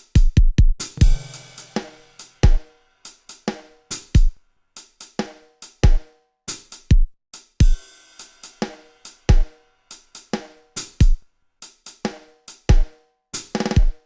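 Music: a drum-kit beat of sharp kick, snare, hi-hat and cymbal hits, with short pitched notes between the strikes.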